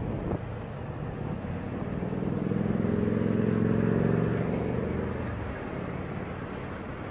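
A motor vehicle engine drones, swelling to its loudest about three to four seconds in and then fading, over a steady low road rumble.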